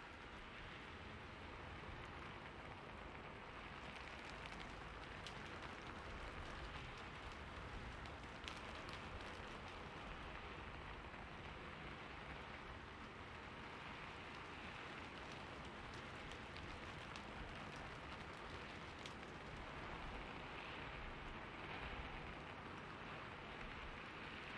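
Steady rainfall, an even hiss with scattered sharper drop ticks of rain hitting a surface.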